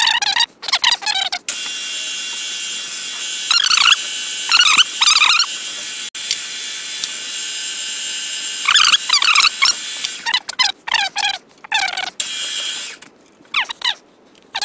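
A machine tool runs steadily for about eleven seconds, drilling the forgotten hole in a steel mounting block, then stops near the end. Short, high-pitched, wavering squeals come over it several times, and there are more squeals before it starts.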